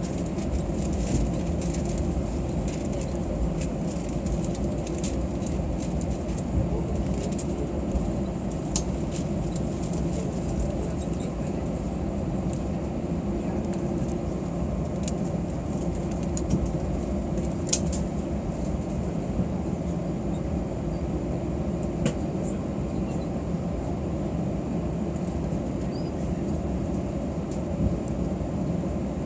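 Cabin noise of an Airbus A320 with its engines running at idle: a steady low rumble with a few light clicks and rattles.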